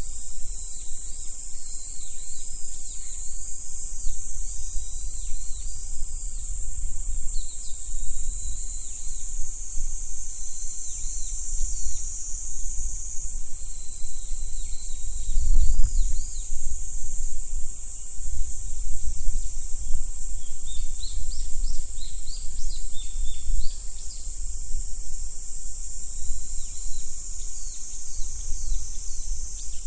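A steady high-pitched insect chorus, with a bird's short repeated chirping calls through the first several seconds and again about twenty seconds in. Under it a low rumble swells briefly about halfway through.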